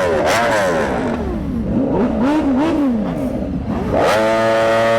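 Sportbike engine revving, its pitch rising and falling several times, then held at a steady high pitch for about a second near the end.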